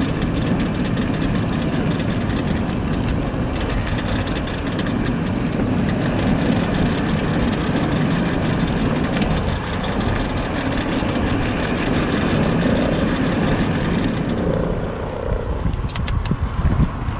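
Steady rushing noise of a Tesla electric car on the move, with a few clicks near the end.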